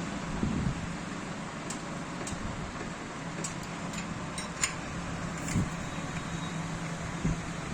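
Steady low mechanical hum with a few faint, sharp clicks scattered through it.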